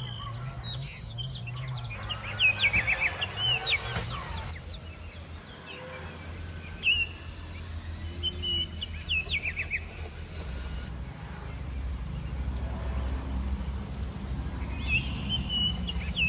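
Birds chirping in short runs of quick falling notes, several times, over a steady low hum.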